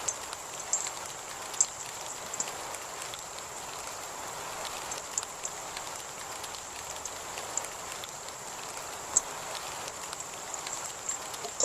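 Steady rain falling, with scattered sharp drops ticking on a surface close by and a thin, steady high whine underneath.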